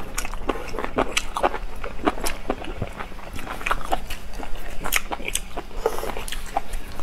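Close-up eating sounds: two people chewing and biting, with many quick, irregular wet mouth clicks.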